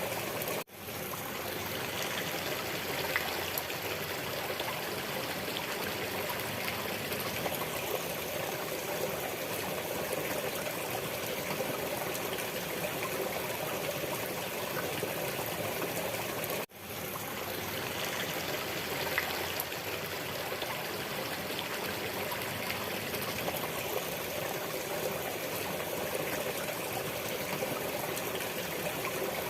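Steady running water of a small stream, trickling and flowing. The sound cuts out for a moment and fades back in twice, about a second in and about halfway through.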